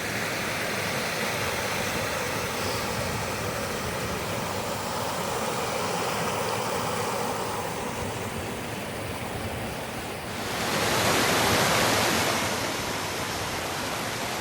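Rainbow Falls waterfall rushing steadily, swelling louder and brighter for about two seconds around ten seconds in.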